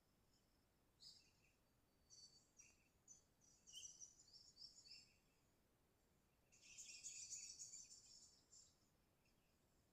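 Sooty-headed bulbul (kutilang) calling faintly in short bright chirping phrases, with a longer, busier burst of calls from about six and a half to eight and a half seconds in.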